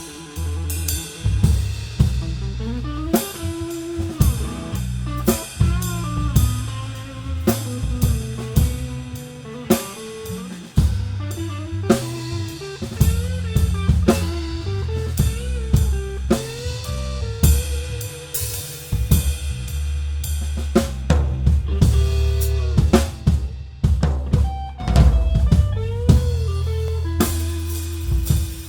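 Live band playing: a drum kit with snare, kick drum and rimshots, close to the drums, over electric bass and guitars.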